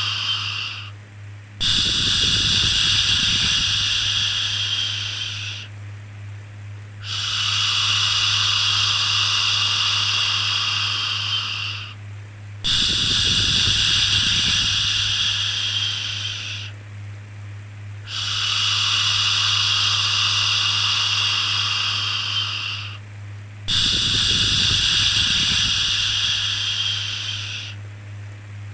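A person making a long "shhh" shushing sound, repeated about five times with a short pause between each one, to soothe a baby. A steady low hum sits underneath.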